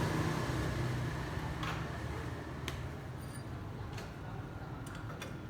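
A motor vehicle's engine hum fades away over the first two seconds, leaving a quieter background with a few light clicks.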